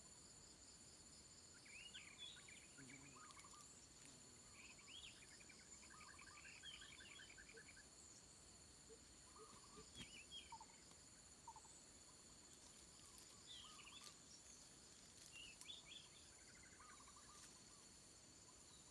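Faint forest ambience: a steady high insect drone, with short bird calls and chirps scattered through it and a rapid trill of repeated notes.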